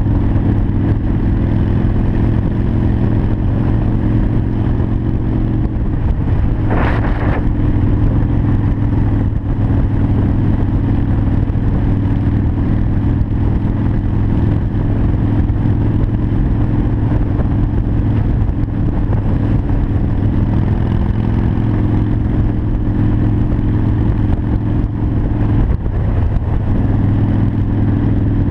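Harley-Davidson Sportster 1200 Custom's V-twin engine running steadily while cruising. The engine note shifts briefly about six seconds in and again near the end, with a short rushing noise about seven seconds in.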